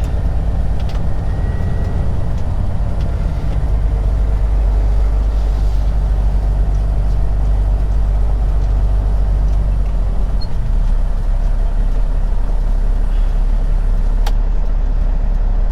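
Semi truck's diesel engine running steadily at low speed while the rig backs out, with a single sharp click near the end.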